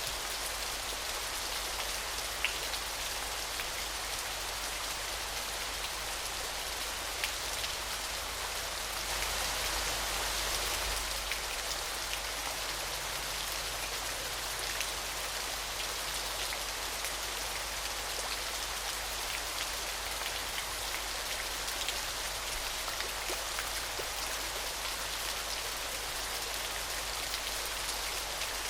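Steady splashing of falling water, a dense even hiss with many fine drop-like ticks, swelling slightly about ten seconds in.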